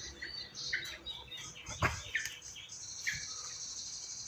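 Yellow-vented bulbul chicks chirping, short calls repeated several times. A steady high-pitched buzz joins about two-thirds of the way in.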